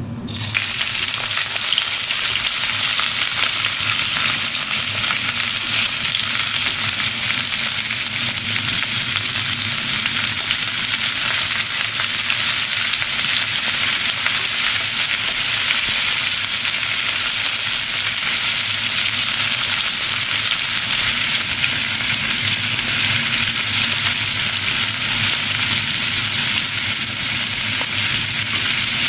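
Galunggong (round scad) fish deep-frying in hot oil, a steady crackling sizzle.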